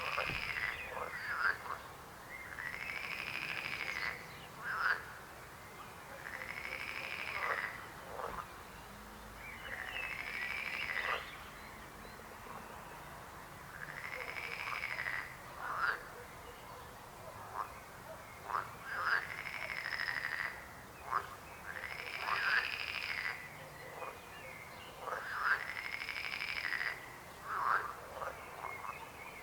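Frogs croaking: a repeated call about a second long, rising and falling in pitch, every three to four seconds, with short sharp notes in between.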